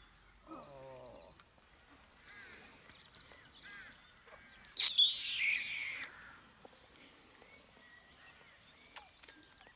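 High animal calls: faint chirps and squeaks, with one short call about half a second in and one louder call near the middle that falls in pitch.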